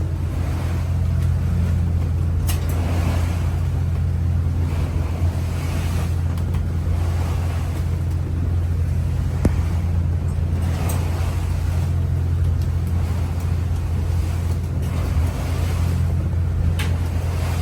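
A trawler's engine running with a steady low drone while the boat plows through rough seas, with waves washing and splashing against the hull in repeated swells. A single sharp knock about nine seconds in.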